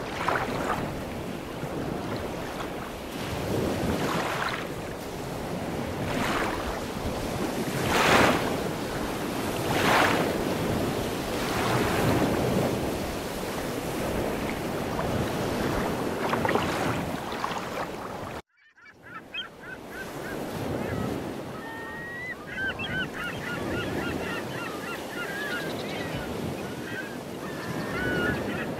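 Choppy lake water washing in surges against a sloped stone shore, with wind on the microphone. After a sudden cut about two-thirds through, a flock of geese honk and call over and over.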